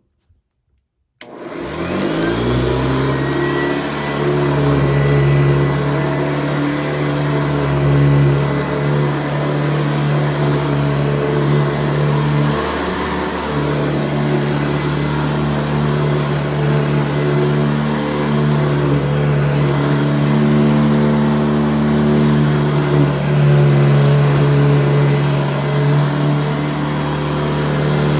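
Upright vacuum cleaner switched on about a second in: the motor spins up, rising in pitch, then runs steadily with a strong low hum.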